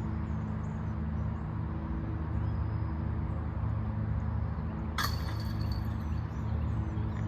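Lawnmower engine running steadily, and about five seconds in a disc golf disc strikes the basket's chains with a sharp metallic clink and brief jingle: a made putt.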